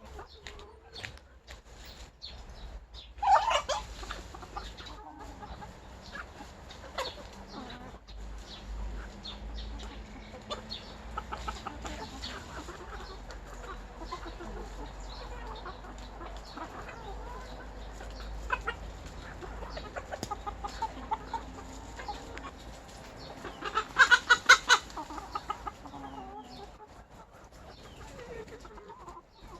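A flock of free-range chickens clucking, with a sharp loud squawk a few seconds in and a louder run of calls about five seconds before the end.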